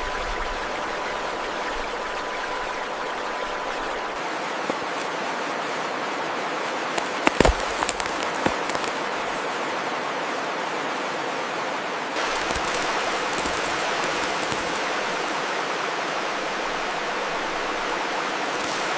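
Steady rush of running water, with a few sharp clicks about seven and a half seconds in; the hiss grows brighter about twelve seconds in.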